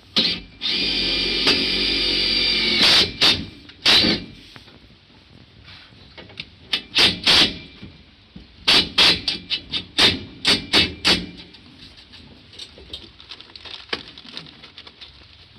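A power drill-driver runs steadily for about two seconds, followed by a series of sharp knocks in bunches, typical of fitting metal roof brackets.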